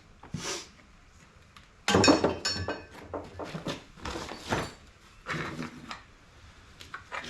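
Irregular knocks and clinks of parts being handled, with a loud cluster of clattering, slightly ringing metallic clinks about two seconds in.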